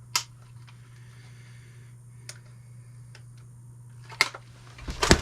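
A few isolated clicks of a trail camera being handled, over a steady low hum. Near the end comes a clatter and then a loud crash as the trail camera is thrown onto the floor.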